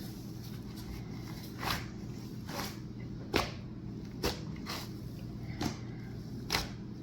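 Cloud slime being mixed and pulled by hand: a series of short, sharp sticky snaps and squelches at irregular intervals, about seven in all, over a low steady hum.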